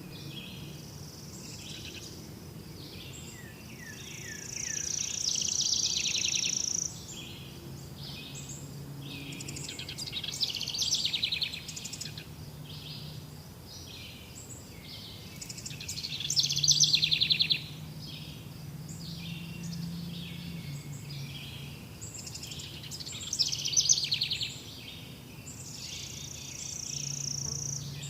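Several birds singing at once: overlapping chirps and rapid trilled phrases, one after another.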